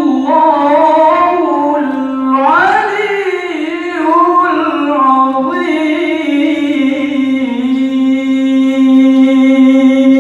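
Melodic Quran recitation (tilawah) by a single qari's voice, ornate and winding in pitch, settling about six seconds in into one long held note.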